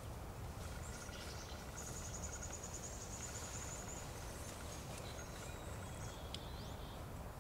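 Quiet woodland ambience with a faint low rumble, and a small bird's high, rapid trill starting about two seconds in and lasting about two seconds, followed by a few faint chirps.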